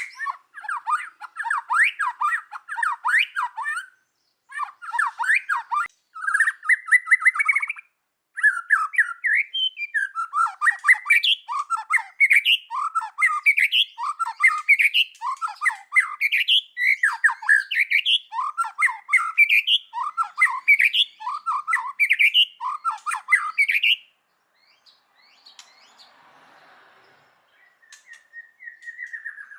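White-rumped shama singing: loud, quick phrases of sweeping whistled notes. About a third of the way in they settle into a regular string of repeated rising phrases. The song breaks off with a few seconds to go, and one last short phrase comes at the very end.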